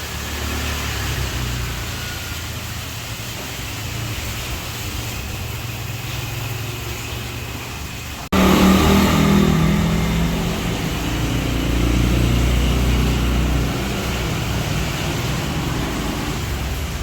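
Car engine running with a steady low rumble. It breaks off abruptly about eight seconds in and comes back louder, with more mid-range noise.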